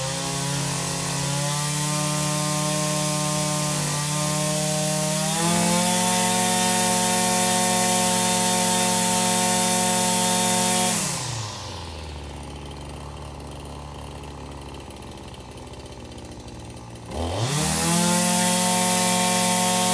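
Small two-stroke engine running at high speed, picking up a little about five seconds in. It drops to a slow idle about eleven seconds in, then is revved back up to full speed some six seconds later.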